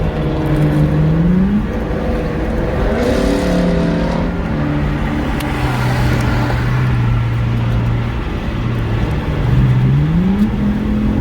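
2016 Ford Mustang GT's 5.0 V8 through a straight-piped exhaust with an X-pipe and resonator delete, accelerating at highway speed. Its pitch climbs, drops sharply about a second and a half in as it shifts, holds steady, then climbs again near the end, over steady road noise.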